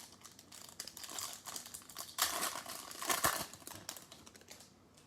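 Crinkling of a foil trading-card pack wrapper being handled and torn open, a run of crackly rustles that is loudest about two to three and a half seconds in.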